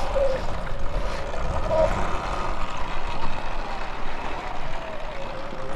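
Electric motorbike motor whining as it is ridden, its pitch wavering a little, over wind rumble on the microphone.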